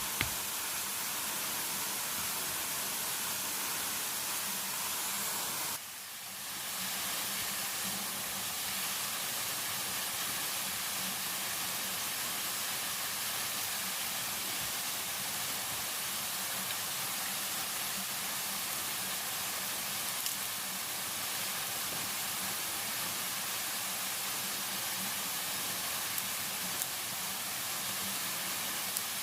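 Steady rushing hiss of water, with a brief sharp dip about six seconds in and a few faint ticks.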